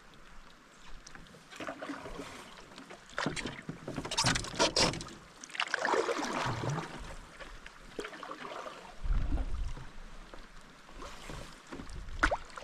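Canoe being paddled in wind: irregular splashes of paddle strokes and waves against the hull, with gusts of wind buffeting the microphone about two-thirds of the way through.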